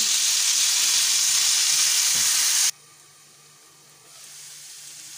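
Chopped raw potatoes frying in hot oil in a nonstick pan: a loud, steady sizzle that cuts off suddenly about two and a half seconds in, leaving only a faint hiss.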